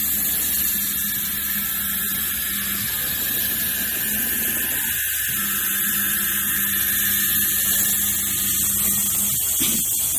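CNC router spindle and drive motors running with a steady high-pitched whine, broken briefly about five seconds in.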